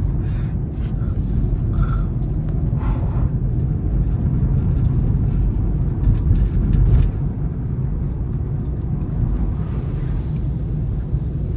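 Honda City car being driven, a steady low rumble of road and engine noise with scattered light clicks and a brief louder swell about six to seven seconds in.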